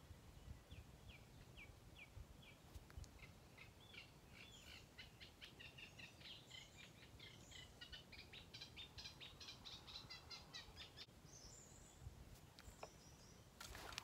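Faint birdsong: a run of short chirps that quickens into a busy string of notes, dying away about eleven seconds in, over a low outdoor rumble. A brief sharp noise comes just before the end.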